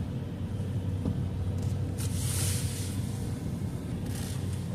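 Car driving slowly, heard from inside the cabin: a steady low engine and road rumble. A brief hiss comes about two seconds in, and a fainter one near the end.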